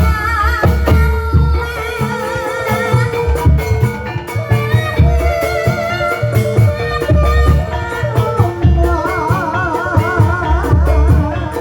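Javanese gamelan accompaniment for ebeg (kuda kepang) dance: steady drum strokes and metallophones under a wavering, ornamented melody line.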